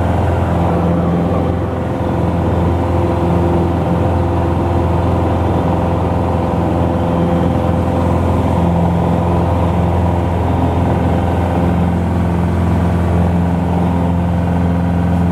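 Cessna 150's Continental O-200 four-cylinder engine running steadily at a constant speed, a loud, even drone.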